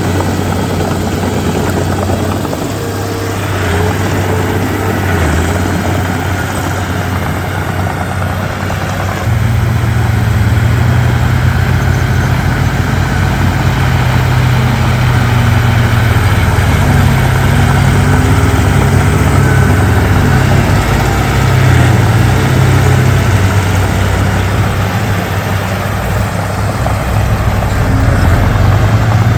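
Komatsu D31P bulldozer's diesel engine running; about nine seconds in the revs rise and it grows louder, holding the higher pitch through the rest.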